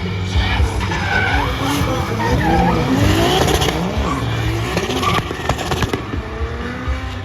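Drift cars sliding, with engines revving up and down and tyres squealing.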